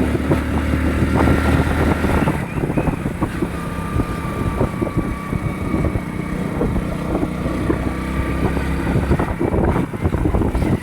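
Hero Splendor motorcycle's single-cylinder four-stroke engine running on the move, with wind buffeting the microphone. The engine note changes about two seconds in.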